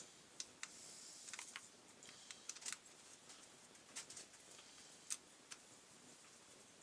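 Faint scattered clicks and light taps of small parts and tools being handled while a brush cutter's recoil starter is refitted, with a few quick clusters of clicks.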